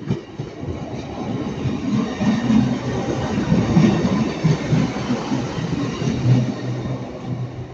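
A Northern Class 150 diesel multiple unit running past on the line, with a dense low rumble of engine and wheels. A steady low engine hum comes up about five seconds in and fades near the end.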